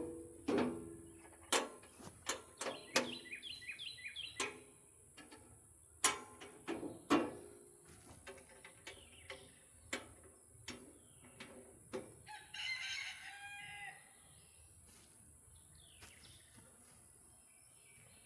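Sharp metal clanks and taps, some ringing briefly, from tools working on a sawmill as its new blade is fitted and tightened, over the first twelve seconds or so. A rooster crows in the background about two-thirds of the way through.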